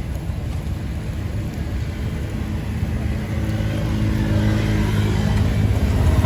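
A motor vehicle's engine running with a steady hum, growing gradually louder as it comes closer.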